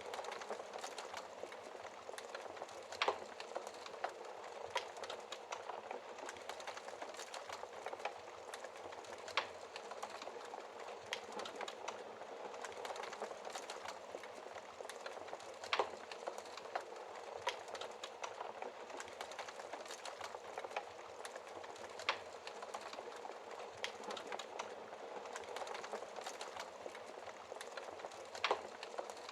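Logs burning in a fireplace: a steady soft crackle with sharp pops every few seconds.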